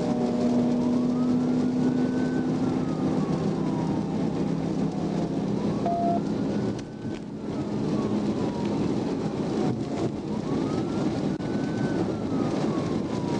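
Police car siren wailing in a slow rise and fall, about one cycle every five seconds, over a steady rushing noise from the moving car.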